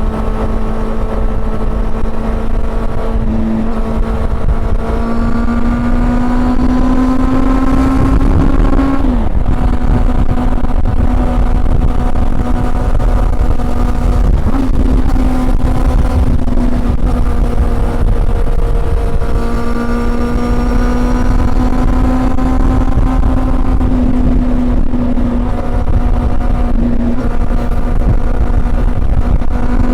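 Honda CB400 Super Four's inline-four engine running under way. Its pitch climbs steadily for several seconds and drops sharply about nine seconds in, as at a gear change, then climbs again after about nineteen seconds. A heavy low wind rumble runs underneath.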